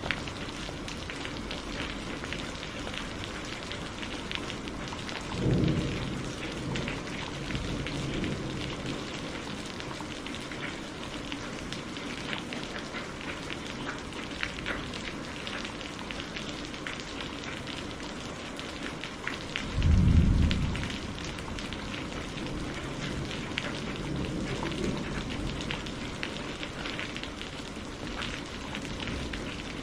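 Steady rain falling, with many small drops pattering on a surface. Thunder rumbles twice: a short low rumble about five seconds in and a louder one about twenty seconds in.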